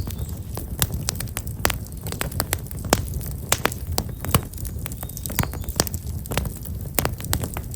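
Black locust firewood burning in an open fire, crackling with irregular sharp pops several times a second over a steady low rumble.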